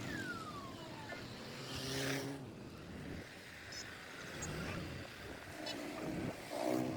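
Roadside traffic noise with two short pitched honks, one about two seconds in and one near the end.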